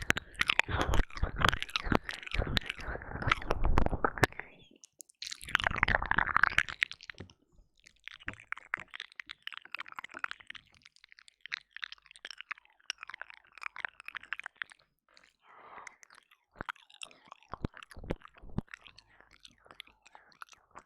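Close, wet mouth sounds of ear licking and mock ear eating into a binaural microphone: dense smacking and clicking for the first several seconds, then sparser, softer licks and clicks.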